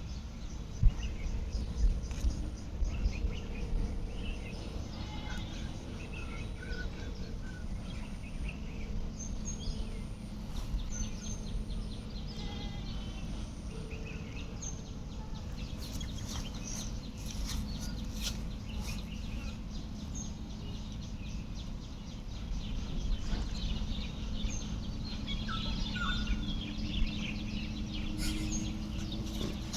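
Outdoor ambience: a steady low rumble with a faint hum, and scattered short bird chirps.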